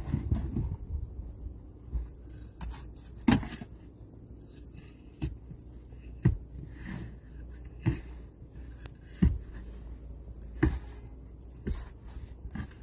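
Slow, heavy footsteps trudging through deep snow: a muffled thud about every second or so.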